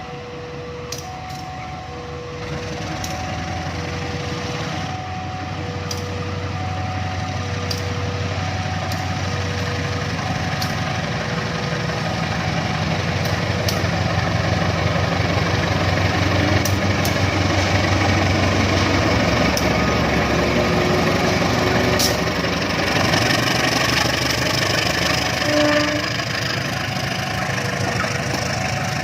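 Railway level-crossing warning signal beeping on two notes about once a second, while a train approaches and passes on the line. The train's rumble and low hum build up over the first few seconds and drown the beeping through the middle, with sharp clicks from the wheels on the rails; the beeping is heard again near the end.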